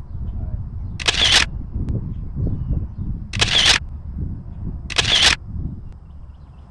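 Camera shutter sound, three times at uneven intervals, each a short crisp click, over a low steady rumble.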